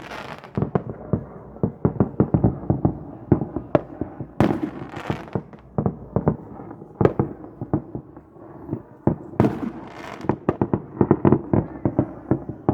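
Fireworks going off in a dense, irregular string of sharp bangs and pops, with a few louder blasts every couple of seconds.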